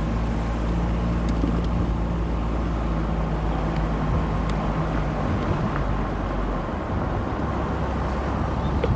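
Car engine and road noise heard from inside the moving car's cabin, a steady low hum that shifts in pitch about two-thirds of the way through.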